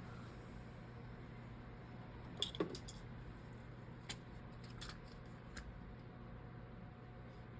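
A few light, sharp clicks and taps from small tools and phone parts being handled during the repair, two close together about two and a half seconds in and a few single ones after, over a faint steady hum.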